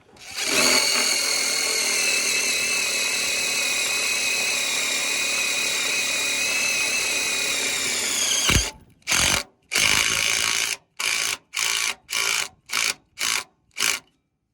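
Cordless impact driver running for about eight seconds as it drives a 1/4-inch self-tapping screw into steel. It stops abruptly, then comes a string of about seven short trigger bursts.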